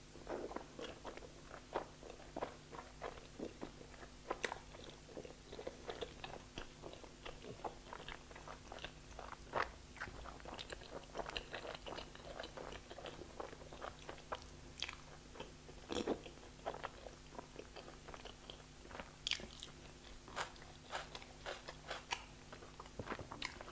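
A person chewing a big mouthful of curry and flatbread with the mouth closed: irregular wet smacks and clicks of lips, tongue and teeth, several a second.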